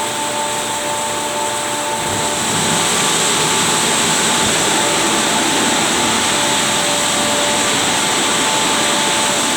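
Christ Genius rollover car wash running: a loud, steady rushing hiss with a faint motor whine, getting louder about two and a half seconds in.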